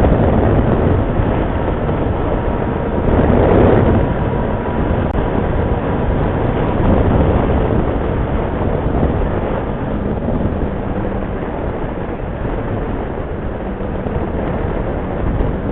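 Motorcycle riding noise: wind and road rush over the bike's running engine, swelling briefly about three seconds in.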